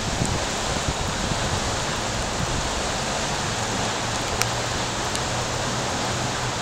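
Steady rain falling on shallow floodwater pooled over concrete, an even hiss with the odd single drop ticking close by.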